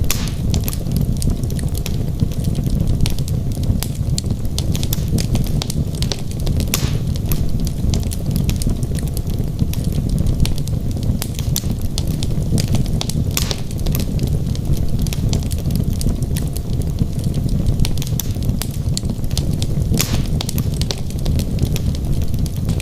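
Wood fire burning in a fireplace: a steady low rumble of flames with frequent irregular crackles and pops from the logs, a few sharper pops scattered throughout.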